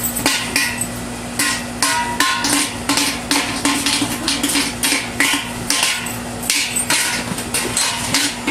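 Toddlers banging hard objects, an irregular run of sharp knocks at about two or three a second, some ringing briefly with a pitch. A steady low hum runs underneath.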